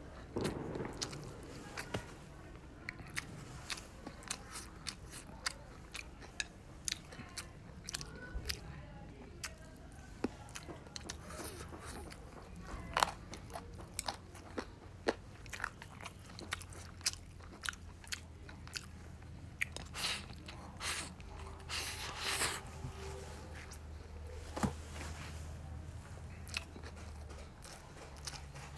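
A person chewing a mouthful of rice with scrambled egg and peppers: irregular wet smacks and sharp little clicks from the mouth, a few to several each second.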